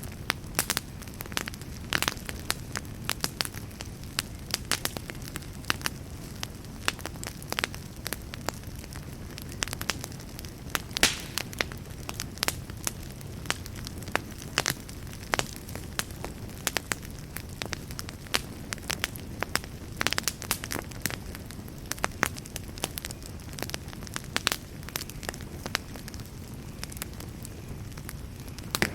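Wood fire burning in a fireplace: a steady low rush of flames with frequent sharp, irregular crackles and pops from the burning wood.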